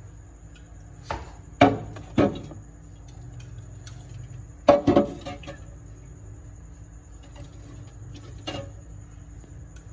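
Drink bottles and cans being set onto fridge shelves: a series of sharp knocks and clinks, the loudest about a second and a half in and two close together near five seconds, with one more near the end, over a steady low hum.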